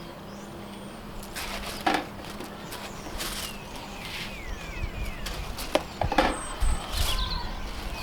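A few separate knocks and rustles as dry ingredients are tipped into a mixing bowl, with small birds chirping faintly in the background.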